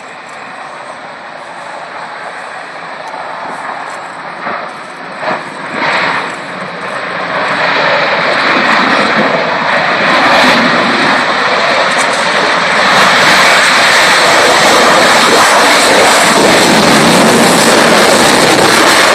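MiG-29 fighter jet's twin Klimov RD-33 turbofans at full power on its take-off, a jet roar that builds steadily for several seconds and then holds loud.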